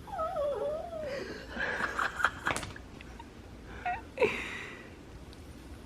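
A dog whining, one wavering call that falls in pitch over about a second, followed by breathy, stifled laughter with a sharp burst of it about four seconds in.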